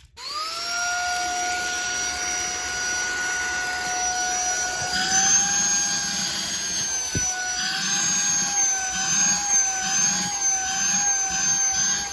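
XREXS cordless handheld vacuum switched on at its lowest suction setting, its motor spinning up quickly to a steady high whine. From about five seconds in the pitch wavers and a low rhythmic rumble comes and goes as the nozzle is worked back and forth over a rug.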